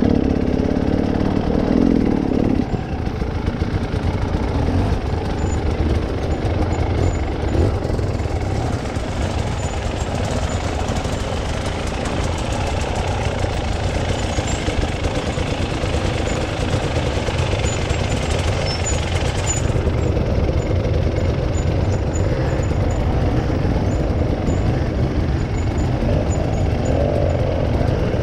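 A vehicle engine running steadily, with a continuous low rumble.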